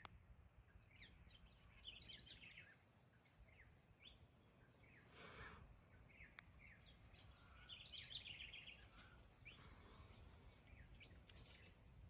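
Faint birds chirping in short, scattered phrases over a low steady background hum, with a brief rustle about five seconds in.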